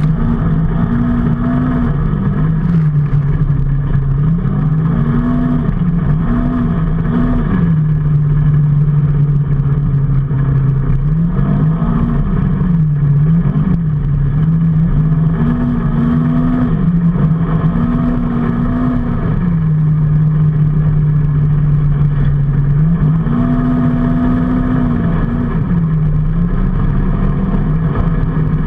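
Motorcycle engine under way, its pitch climbing and dropping again and again as it speeds up and changes gear, with steady cruising stretches in between. Heavy wind and road noise runs underneath.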